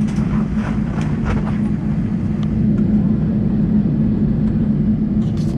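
Airbus A320 cabin noise: a steady low hum and drone, with a few faint clicks and knocks.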